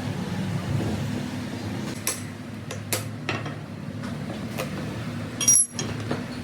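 Hand tools knocking and clinking on metal in a workshop: about half a dozen sharp strikes at uneven intervals. The loudest comes about five and a half seconds in with a brief metallic ring. A steady low hum runs underneath.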